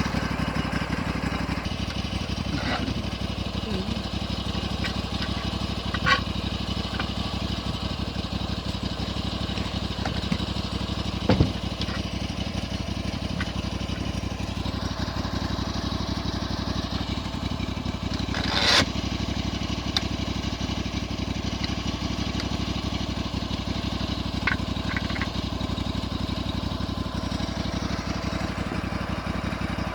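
A homemade sawmill's engine running steadily, with a few sharp knocks and clicks over it; the loudest knock comes about two-thirds of the way through.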